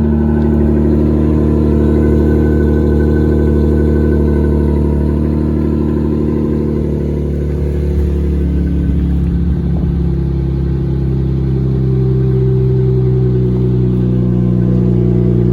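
2021 Jeep Gladiator's V6 idling through a Rough Country cat-back dual exhaust, shortly after a cold start. It runs at a steady note that shifts slightly about halfway through.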